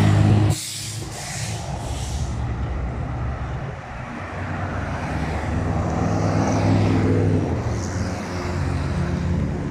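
Heavy trucks' engines running as they roll past in a convoy. The sound is loudest in the first half second, then drops, and a few short hisses come in the first couple of seconds.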